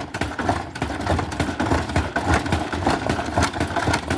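Polaris Trail Boss 350L 4x4 ATV engine running as the quad is ridden, its note pulsing rapidly and rising and falling in level.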